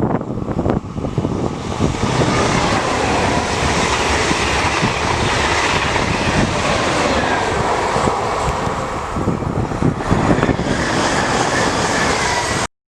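Train passing at speed on the electrified PLM main line, a loud steady rush of wheel and air noise that cuts off suddenly near the end.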